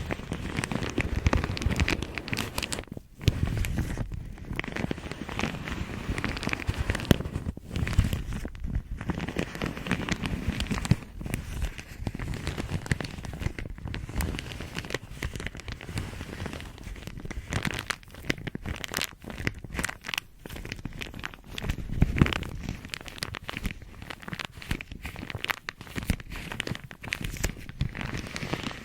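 A bag crinkled and handled close to the microphone: dense, irregular crackling that keeps going, with a few brief lulls.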